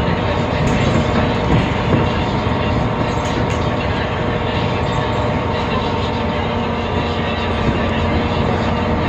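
Temsa Avenue LF city bus with a DAF PR 228 diesel engine and ZF Ecolife gearbox running, a steady drone with several faint steady tones over it.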